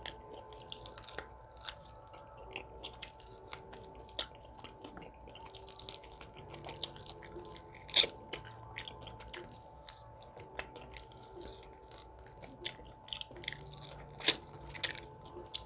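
Close-miked eating sounds: chewing and biting as meat and skin are gnawed off a chicken drumstick bone, with many short wet mouth clicks and smacks. The loudest bites come about eight seconds in and twice near the end.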